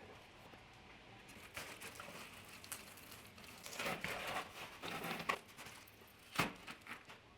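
Irregular rustling and light clicks of things being handled, with one sharp knock about six seconds in.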